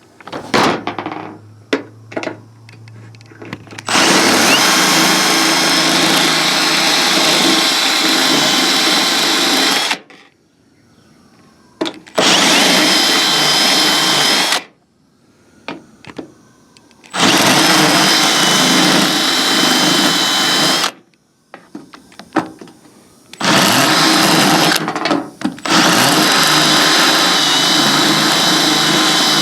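Power drill with a spot weld cutter bit cutting through the spot welds of a steel truck roof skin. It runs in five bursts of a few seconds each, with short pauses between them, and carries a high steady whine; the first burst is the longest.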